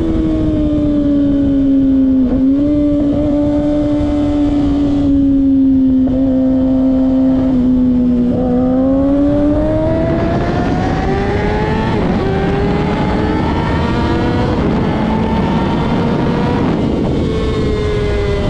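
Kawasaki ZX-6R sport bike's inline-four engine running hard. Its pitch holds steady for several seconds, then climbs, dips briefly about two-thirds through, climbs again and eases off near the end, with a rushing noise growing under it.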